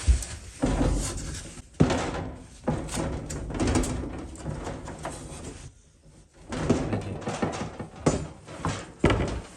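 A wooden window frame being worked into place: several sharp knocks with scraping and rubbing of wood between them, and a short quiet pause partway through.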